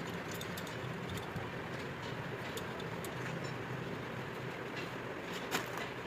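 Steady low mechanical hum with scattered light clicks, and one sharper click about five and a half seconds in.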